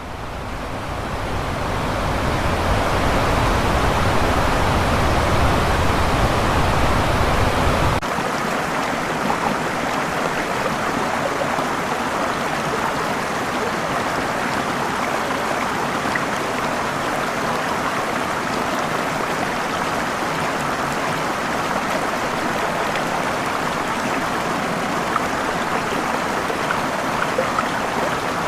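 Waterfall: steady rushing water, fading in over the first couple of seconds. About eight seconds in it cuts abruptly to a lighter, steady rush of water without the deep rumble.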